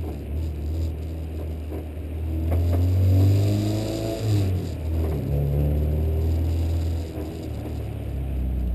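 A car engine revving under acceleration. Its pitch climbs for a couple of seconds about halfway through, drops off, then rises again.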